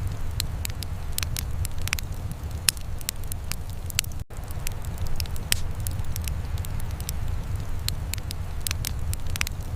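Wood fire crackling, with sharp irregular pops over a steady low rumble. The sound cuts out for a split second about four seconds in.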